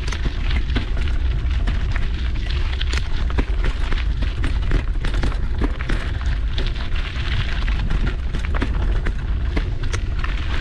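Mountain bike riding over a dirt trail: wind buffeting the action camera's microphone with a steady low rumble, over constant clicking and rattling from the bike and tyres on the ground.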